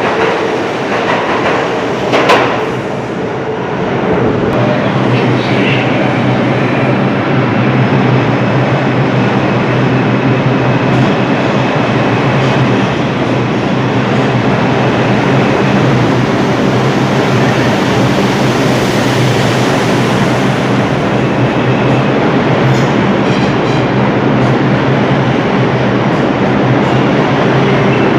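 Train running on rails, a loud steady rumble of wheels and running gear, with a sharp clack about two seconds in.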